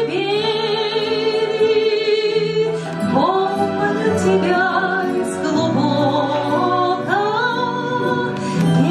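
A woman singing a slow song with strong vibrato over instrumental accompaniment: she holds one long note at the start, then slides up into each of the next notes.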